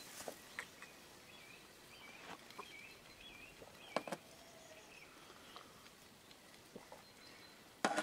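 Quiet rural ambience with a small bird singing faintly, a wavering whistled phrase a few seconds long, and a few light knocks, one about four seconds in and a louder one near the end.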